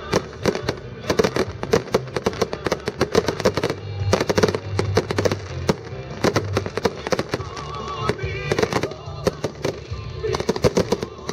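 Fireworks display: many sharp bangs and crackles of bursting shells in quick succession, with music playing underneath.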